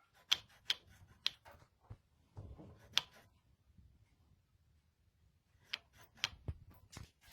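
Scattered sharp clicks and light knocks of hard objects being handled, a few close together at the start, one louder about three seconds in, and another cluster near the end.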